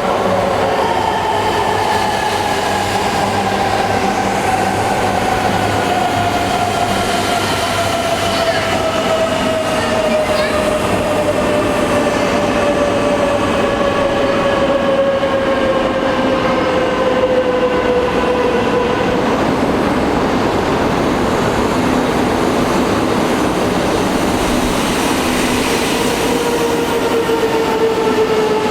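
Coupled Tohoku Shinkansen E3 and E2 series train sets arriving, their VVVF inverter motors whining in several tones that slide steadily down in pitch as the train slows into the station, over steady wheel and running noise. A fresh whine starts up near the end.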